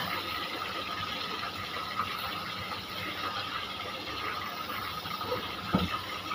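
Aromatics and sauce frying in a wok while being stirred with a spatula: a steady, fine crackling sizzle, with one short soft knock near the end.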